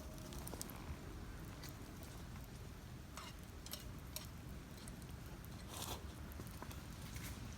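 Open wood campfire crackling, with a handful of sharp pops scattered over a low steady background.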